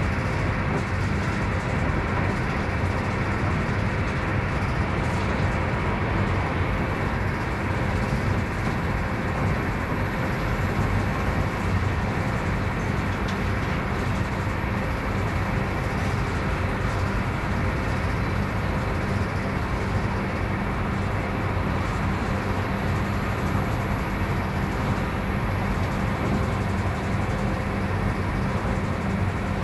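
Interior running noise of an SJ X40 double-deck electric multiple unit travelling at speed: a steady rumble of wheels on rails, with a low steady hum underneath.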